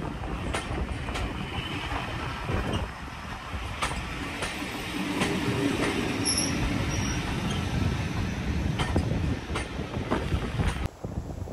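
Maroon heritage railway passenger coaches rolling slowly past a platform: a steady rumble with wheels clicking irregularly over rail joints and brief high wheel squeals about six seconds in. The noise drops sharply near the end.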